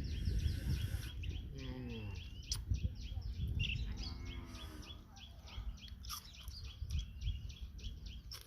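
Birds chirping, a steady run of short high chirps several times a second, over a low rumbling noise.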